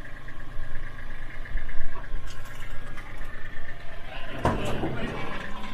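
Tractor engine running steadily at low speed, with a short louder burst of noise about four and a half seconds in.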